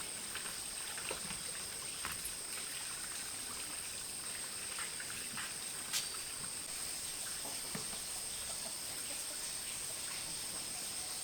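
Insects trilling steadily at a high pitch, two constant tones, with scattered small clicks and taps and one sharper click about six seconds in.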